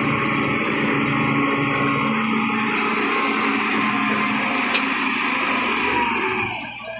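Heavy machinery running steadily, likely the engine of a truck or loader at work, with a rough rumbling noise that drops away about six and a half seconds in.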